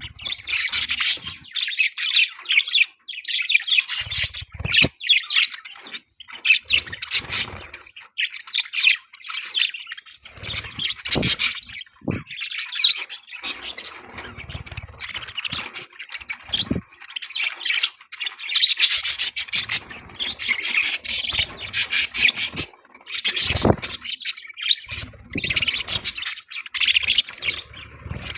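Budgerigars chattering and warbling with rapid chirps and occasional harsher squawks, almost without pause, with a few short low thumps in between.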